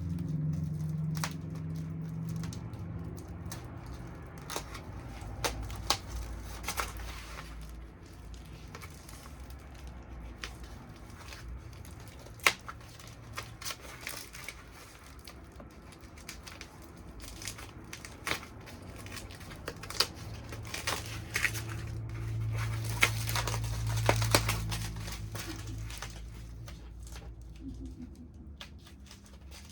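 Cardboard box and packing wrap being cut open and handled: scattered crinkling with sharp clicks and snaps.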